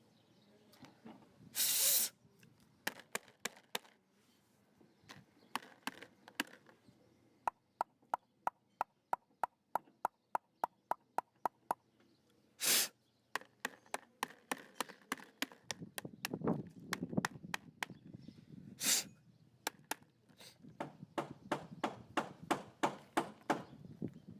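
Clicks and knocks of mechanical work, with a run of evenly spaced ticks, about four a second, in the middle. Three short bursts of hiss break in, one near the start, one about halfway and one later on.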